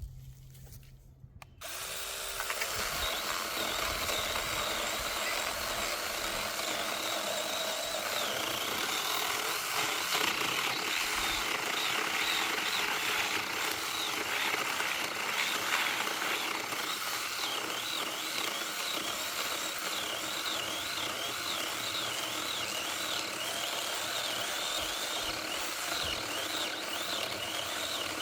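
Battery-powered mini chainsaw switched on and running with a steady electric whine, cutting wood. From about eight seconds on, the whine wavers up and down.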